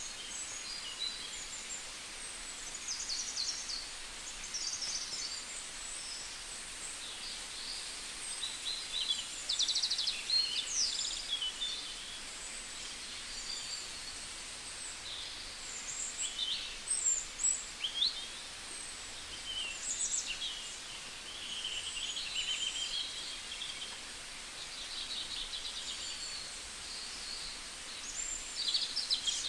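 Several small birds chirping and calling, short high chirps and whistles overlapping, with a rapid trill about a third of the way through, over a steady faint hiss.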